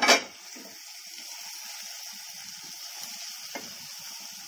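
A sharp metal clank as the pan lid is set down on the stove, then masala-stuffed baby aubergines frying in oil in a kadhai over a low flame, with a steady sizzle. There is a light knock about three and a half seconds in, as a wooden spatula starts turning them.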